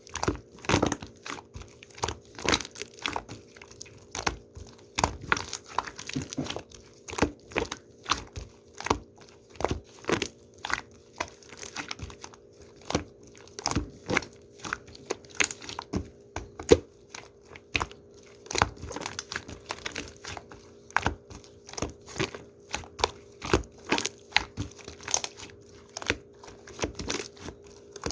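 Slime being squeezed and worked by hand, giving a string of crackling clicks and pops a few times a second.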